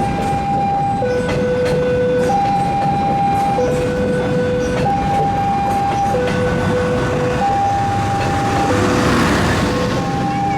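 Level-crossing warning alarm sounding two alternating electronic tones, a higher one and a lower one, each about a second and a quarter long. Under it runs the steady rumble of a passing train, with faint clicks from its wheels and a swell of hiss near the end.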